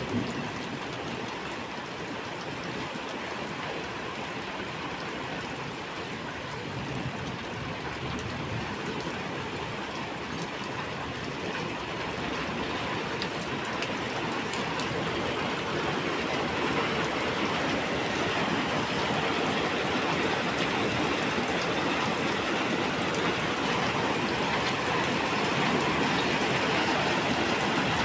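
Heavy rain pouring down in a steady downpour, growing louder from about halfway through.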